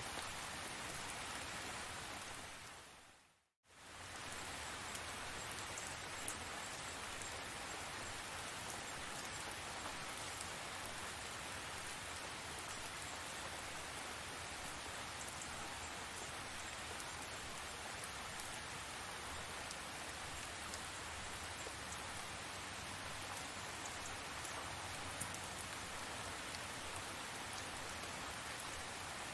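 Steady rain falling, with scattered faint drop ticks. About three seconds in it fades out to silence for a moment and then comes straight back.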